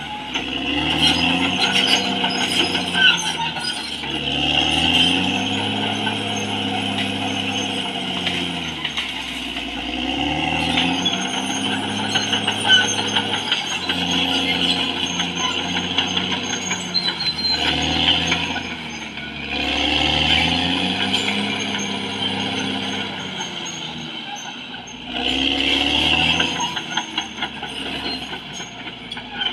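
Caterpillar D6R XL bulldozer's diesel engine working under load, its pitch rising and falling in repeated surges every few seconds, over a steady clanking and squealing of the steel tracks.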